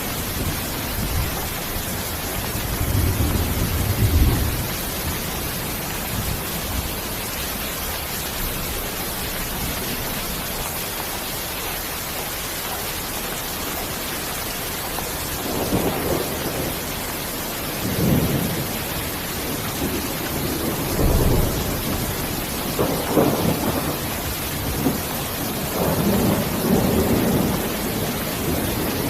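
Steady hiss of heavy rain, with low rolling rumbles of thunder: one about three seconds in, then several in a row through the second half.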